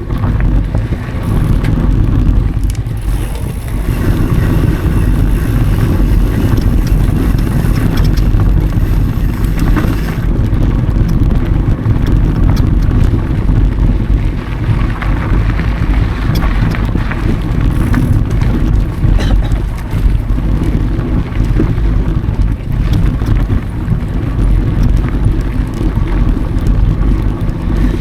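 Steady, loud rumble of wind on an action camera's microphone and mountain bike tyres rolling over dry dirt singletrack, with faint rattles from the bike.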